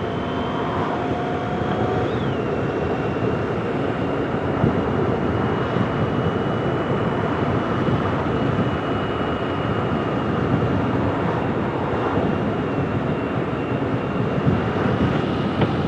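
Motorcycle on the move heard through a helmet-mounted intercom microphone: steady wind and road noise with the engine running underneath.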